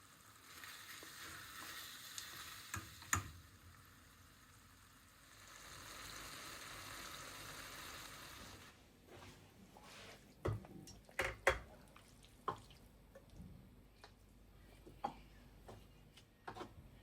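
Kitchen sounds: two stretches of soft hiss, each a few seconds long, then a run of light clinks and knocks of utensils and dishes, a few of them sharper and louder.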